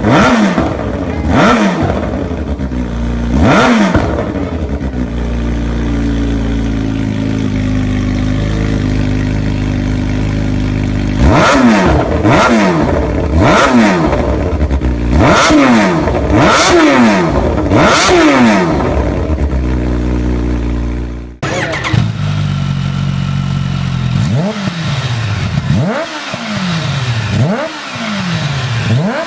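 Kawasaki H2's supercharged inline-four engine revved in quick throttle blips, each rising and falling in pitch, with steady idling between them: two blips early on, a long idle, then a run of about six blips. About two-thirds of the way through the sound cuts abruptly and another run of blips follows, slightly quieter.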